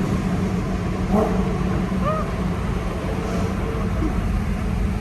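BMW E90 M3's 4.0-litre V8 running through a custom exhaust, heard from inside the cabin as a steady, loud low drone, with a few faint brief chirps over it.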